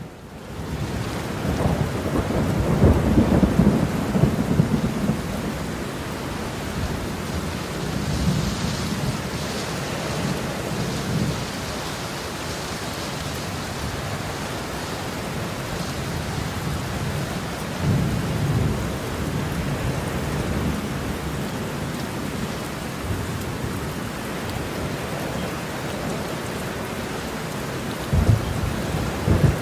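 Heavy rain falling steadily, with a long low roll of thunder building about a second in and peaking over the next few seconds. Fainter rumbles of thunder follow later, and a couple of sharper low claps come near the end.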